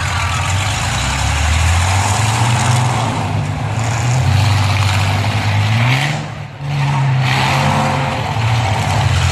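Demolition-derby truck engines running and revving, their pitch shifting up and down; about two-thirds of the way through the sound drops briefly, then an engine revs back up.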